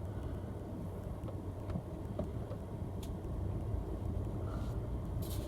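Inside a moving car: the steady low rumble of engine and road noise, with a few faint ticks.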